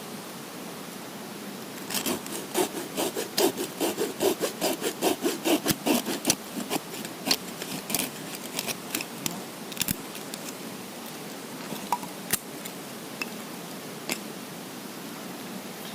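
Hand saw cutting wood, likely firewood for the campfire, in a quick run of back-and-forth strokes lasting about five seconds, followed by a few scattered knocks and clicks.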